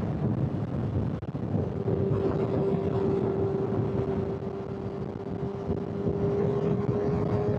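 Honda CBR600 sport bike's inline-four engine cruising at steady revs on the highway, its even note settling in about two seconds in, over a constant rush of wind and road noise.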